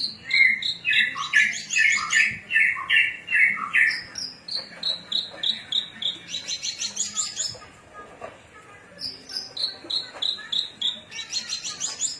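Javan bush lark (branjangan) singing: repeated phrases of short whistled notes, some stepping slightly down in pitch, each phrase ending in a rapid buzzy high trill.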